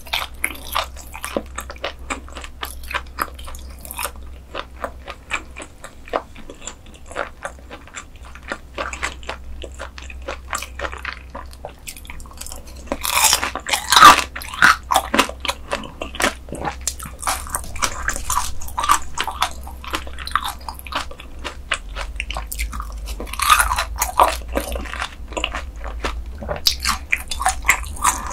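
Close-miked chewing of crispy grilled beef intestines: a dense run of wet crunching bites, loudest about halfway through and again a few seconds before the end.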